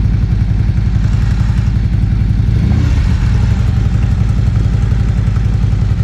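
Harley-Davidson V-twin motorcycle engine idling loudly with a fast, even pulse, the note lifting briefly about halfway through.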